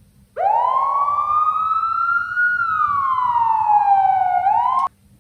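Toy police car's electronic siren sounding a single wail: the pitch rises quickly, creeps higher, then slides down for a couple of seconds, flicks back up and cuts off suddenly.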